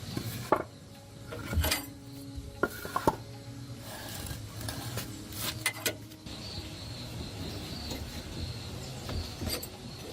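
Scattered light clicks, taps and clinks of metal parts and hand tools being handled, over a steady low hum.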